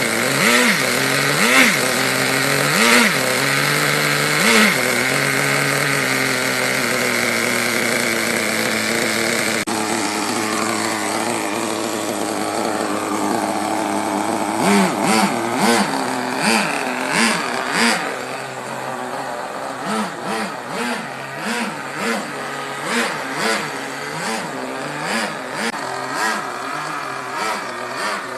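Small nitro glow engine of an HSP Backwash RC buggy running and being revved in short throttle blips, its pitch jumping up and falling back each time. It holds a steadier note for a few seconds, then from about halfway blips quickly and evenly, roughly every half second or so.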